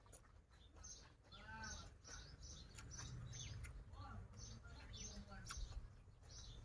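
Faint, quiet eating sounds: chewing and light crunching of a raw vegetable and seaweed salad. Small birds chirp repeatedly in the background, with one longer pitched call about a second and a half in.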